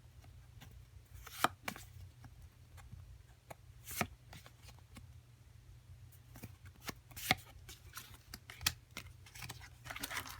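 Japanese Pokémon trading cards being handled and sorted by hand, with scattered soft clicks and taps as cards are flicked and set down, over a low steady hum. A denser rustle builds near the end.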